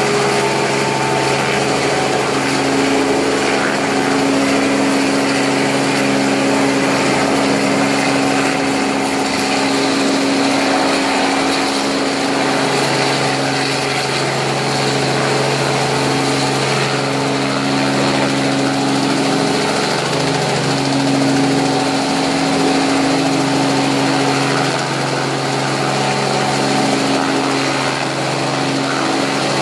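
Helicopter in flight: a steady, loud drone of engine and rotor with a strong low hum that holds level throughout.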